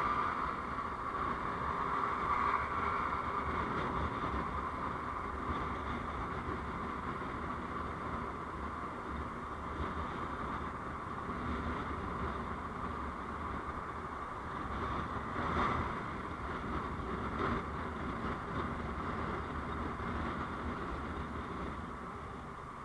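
Steady road and engine noise of a moving vehicle, with a couple of brief louder swells in the second half and a drop in level near the end.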